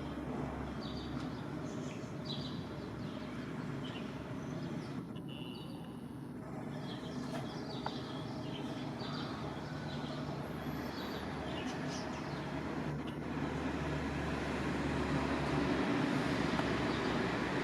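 Sparrows chirping in short, repeated calls over a steady low rumble that grows a little louder near the end.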